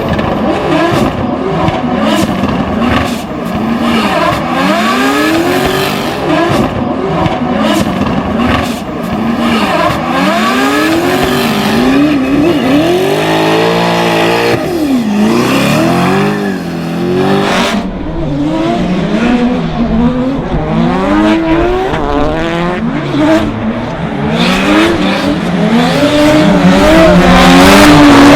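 Toyota Supra MK4's 2JZ straight-six engine revving up and down over and over during a drift, with tyre squeal growing louder near the end.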